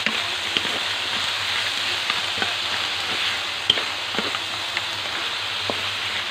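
Balay shells and vegetables sizzling as they are stir-fried in a wok, with the wooden spatula clicking and scraping against the shells and the pan. One click about three and a half seconds in is sharper than the rest.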